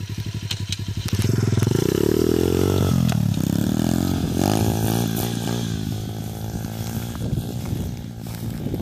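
SJR 125 cc four-stroke single-cylinder pit bike engine running low, then revved. The pitch rises for about two seconds, drops sharply, rises again, then steps down and settles to a lower, steadier note.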